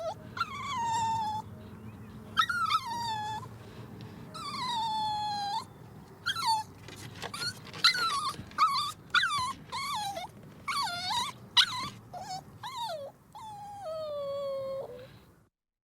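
A dog whining and whimpering: a run of high cries that mostly fall in pitch, some drawn out for about a second and others short and sharp.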